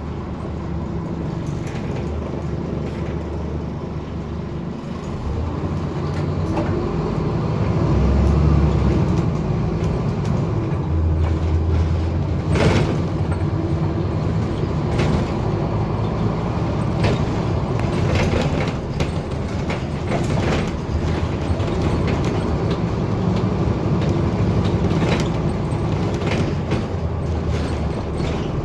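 Scania N230UD double-decker bus under way, heard from inside, its engine revving high as the slipping ZF automatic gearbox lets it run up towards the redline. The revs rise a few seconds in, and frequent rattles and knocks come from the body.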